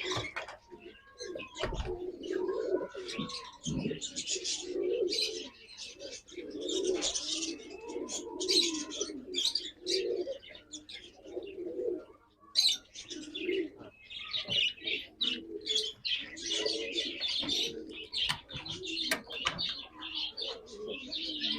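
A loft of domestic pigeons cooing continuously, many birds overlapping, with brief scratchy rustles and wing flutters among them.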